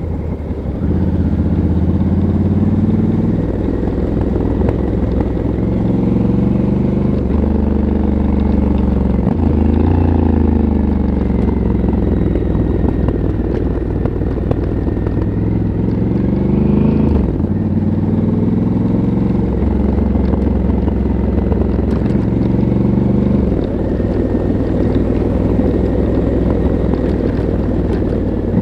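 Honda CRF1100L Africa Twin's parallel-twin engine through its stock exhaust, being ridden. The engine note climbs and then drops sharply about five times, with the pitch rising under throttle and falling at each shift or roll-off.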